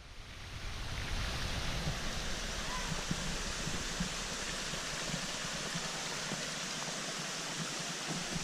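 Running water of a forest stream: a steady, even rush that fades in over the first second and then holds level.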